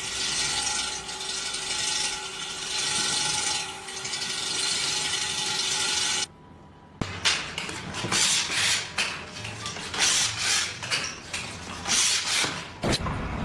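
Mechanical work noise: a steady whir with faint steady tones that cuts off about six seconds in, then, after a short pause, a run of irregular scraping, rasping strokes.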